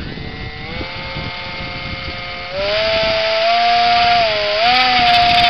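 Electric motor of a foam-board RC biplane spinning a 6x4 propeller with a steady whine. About two and a half seconds in the throttle is pushed up for a takeoff run: the whine gets much louder and a little higher, and wavers in pitch as the plane is pushed around.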